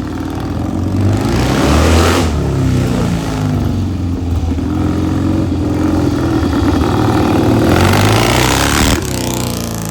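Classic motorcycle engine running and being revved, its pitch rising and falling, loudest about two seconds in and again near the end, then dropping away suddenly about nine seconds in.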